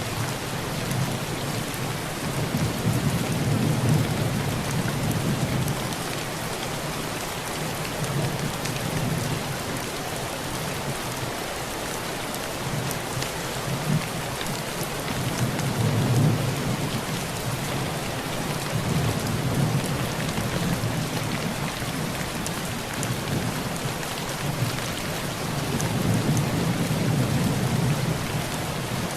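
Heavy rain falling steadily on a tin roof, with low thunder rumbling and swelling several times. The rumbles are loudest about four seconds in and again around sixteen seconds.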